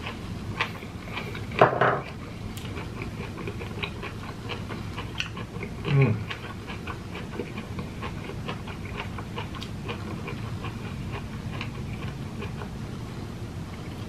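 Close-miked chewing of sticky jackfruit flesh: many small wet mouth clicks and smacks. There is a louder burst about two seconds in and a short sound falling in pitch at about six seconds.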